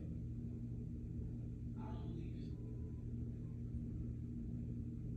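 A steady low electrical-sounding hum runs throughout, with one short, quiet vocal sound about two seconds in.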